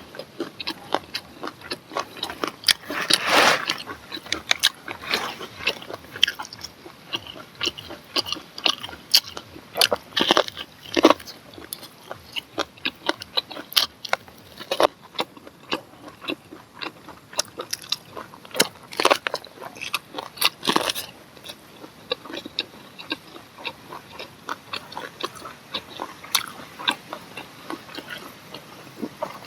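Close-up biting and chewing of grilled corn on the cob: irregular crunches and clicks as the kernels are bitten off and chewed, with a louder bite about three seconds in. The kernels are from an older cob and tiring to chew.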